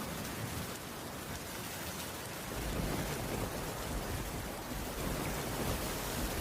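Heavy rain falling steadily as a continuous hiss, with a low rumble building underneath about halfway through.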